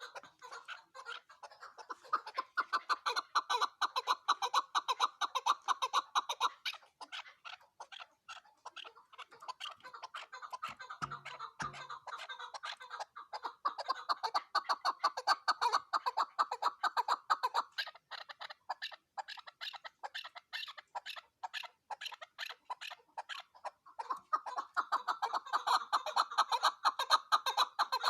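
Chukar partridge calling: a fast run of clucking chuk notes, several a second, that swells into louder bouts three times.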